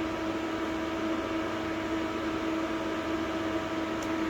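Steady machine hum from a CNC lathe standing running in the workshop: an even drone with a constant low pitched tone, and a faint tick near the end.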